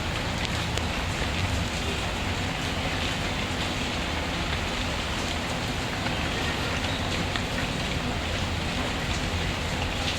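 Steady rainfall, an even hiss, with a wood fire crackling faintly in the mix.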